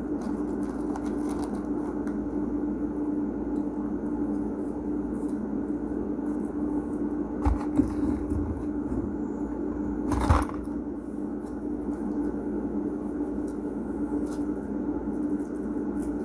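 A steady droning hum with faint scattered clicks, and two brief knocks about seven and a half and ten seconds in, the second the louder.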